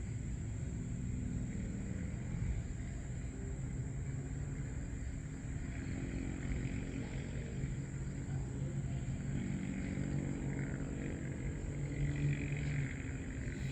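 Steady low rumble of distant engines, like road traffic, with a constant faint high whine.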